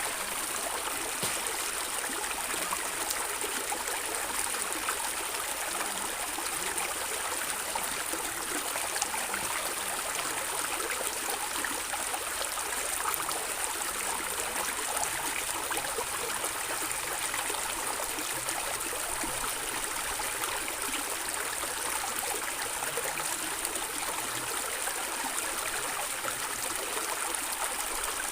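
Running water of a small stream gurgling and trickling steadily, a bright, even hiss with little deep rumble.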